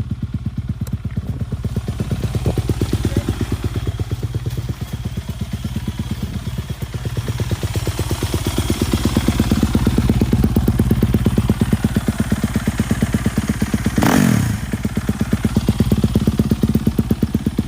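Pit bike engine running close by with a rapid, even firing pulse, getting somewhat louder through the middle. About fourteen seconds in, its pitch sweeps briefly downward before the steady running resumes.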